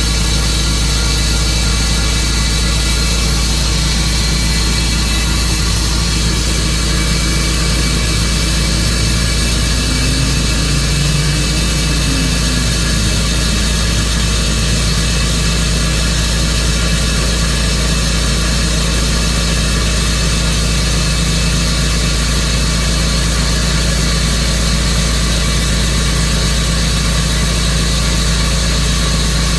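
Tru-Cut sawmill's engine running steadily at a constant pitch.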